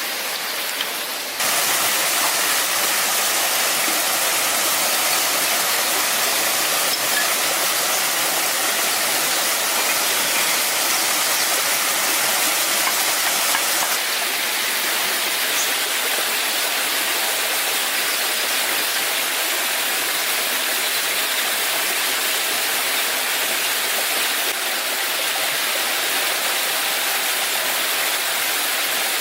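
Steady rushing of water falling, a continuous even roar with no break, stepping up in level about a second and a half in.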